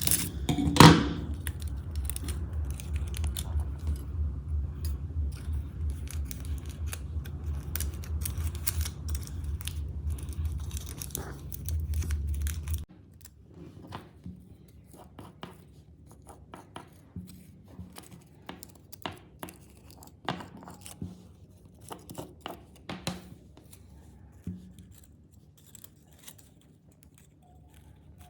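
Hands working aluminium foil and paper: scattered snips, scrapes, clicks and crinkles. There is a loud knock about a second in. For the first half these sit over a steady low hum, which cuts off suddenly.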